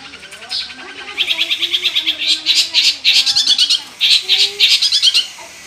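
Long-tailed shrike (cendet) singing a fast chattering song of rapidly repeated high notes in runs, starting about a second in with a short break near four seconds.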